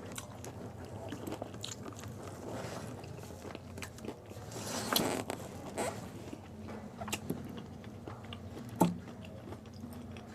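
Pani puri (gol gappay) being eaten: crisp hollow puri shells filled with spicy water are bitten and chewed, giving irregular crunching and wet chewing. There is a louder crunch about five seconds in and a sharp click near nine seconds.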